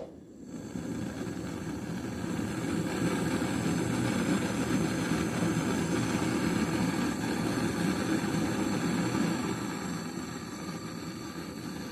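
A motor-driven machine switches on and runs steadily, building up over the first couple of seconds and easing slightly near the end.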